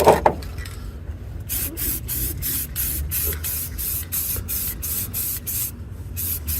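Aerosol spray can hissing in short, rapid bursts, about three a second, after a knock at the start.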